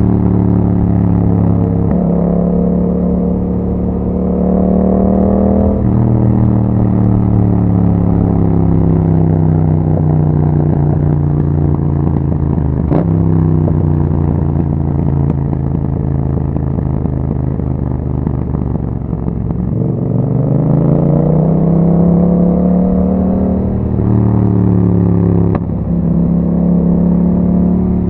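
2021 Yamaha MT-07's parallel-twin engine through an Akrapovic exhaust, under way. It pulls up through the gears with shifts about 2 and 6 seconds in, runs steadily, then slows down for several seconds. It then pulls up again, with two more quick shifts near the end.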